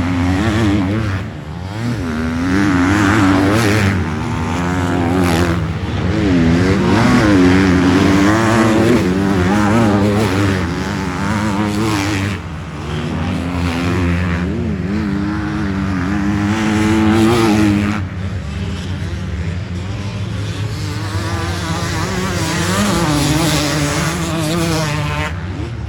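Several motocross dirt bikes racing, their engines revving up and down and overlapping as they accelerate and shift. The sound stays loud throughout and eases somewhat about eighteen seconds in.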